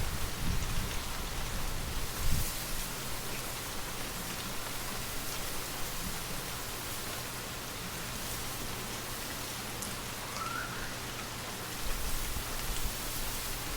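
Steady light rain pattering as an even hiss, with a low wind rumble that dies away about two seconds in and picks up again near the end.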